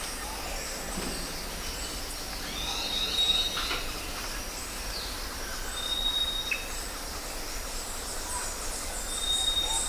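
Birds calling: a clear, high, steady whistle note repeated about every three seconds, with a few short chirps in between, over a constant background hiss.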